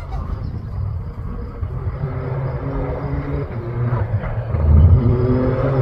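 Engine of a rally-raid competition vehicle running hard on the stage, its pitch stepping up and down and growing louder as it comes closer, loudest about five seconds in.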